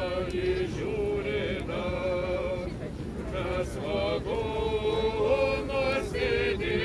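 A group of voices singing a song together in Lithuanian, on long held notes.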